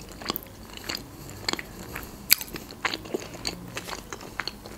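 A person chewing a mouthful of food with the mouth closed: irregular sharp clicks and crunches of eating.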